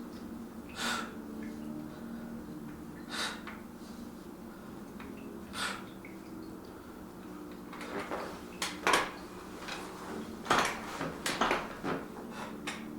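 Metal clinks and knocks of dumbbells being handled: a few single clinks a couple of seconds apart, then a quick run of sharper clinks and knocks over the last few seconds, over a steady low hum.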